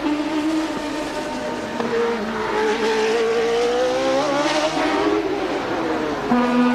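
Late-1980s Formula One car engine at racing speed, its pitch climbing for a couple of seconds and then dropping away.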